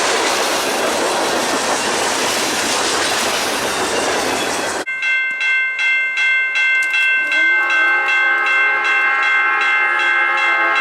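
Freight train rolling past with a steady rush of wheel and rail noise. It cuts off suddenly about five seconds in. A locomotive bell takes over, ringing in steady strokes. The locomotive's horn joins about two and a half seconds later.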